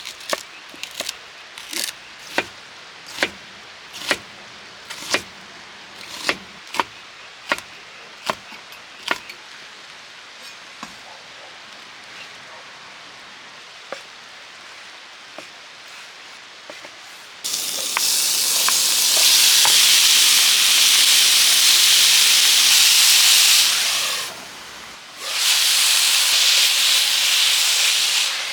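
About a dozen sharp clicks, roughly one a second, like food being cut, over a faint hiss. Then, about two-thirds of the way in, a loud sizzle starts as food hits a hot pan and fries. The sizzle drops away briefly near the end and comes back.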